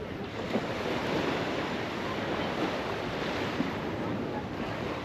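Ocean surf washing onto a beach in a steady wash of noise, with wind buffeting the microphone.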